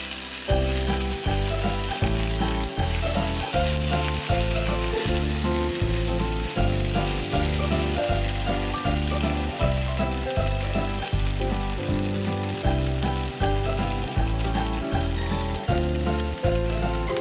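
Sliced pork, potatoes and onion sizzling as they fry in a nonstick frying pan, over background music with a steady beat.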